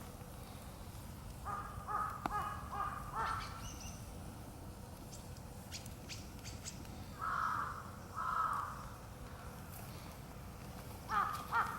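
A crow cawing: a quick run of caws, then two longer, drawn-out caws, then another run near the end. Sharp snaps from a crackling wood campfire sound between the calls.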